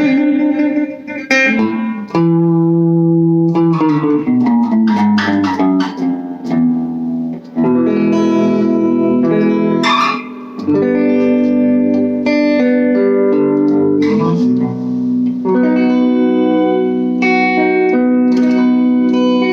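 Electric guitar played through a small all-tube amp on the neck pickup, tone knob rolled down to about 2 and gain at 4 o'clock: a clean tone, chords and picked notes ringing out.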